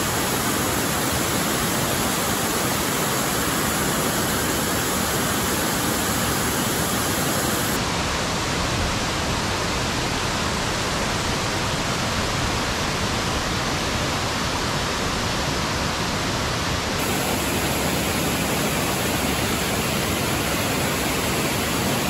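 Raymondskill Falls waterfall: a steady, even rush of falling water.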